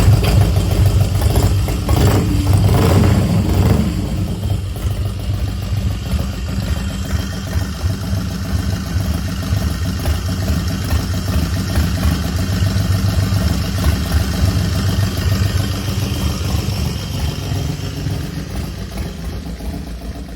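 2005 Von Dutch custom chopper's V-twin engine running, briefly picking up a few seconds in, then settling into a steady idle that fades near the end.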